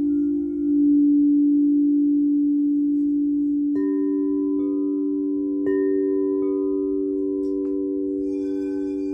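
Singing bowls ringing: a low bowl hums steadily, swelling about a second in, and further bowls are struck about four and six seconds in, adding higher ringing tones that slowly fade. Near the end, faint high chime-like tones join.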